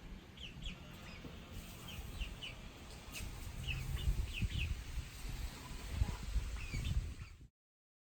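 Chickens clucking, a string of short high calls over a low rumble. The sound cuts off suddenly near the end.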